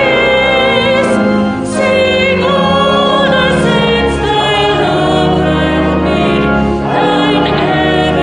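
Choir singing sacred music in sustained chords over held low accompanying notes.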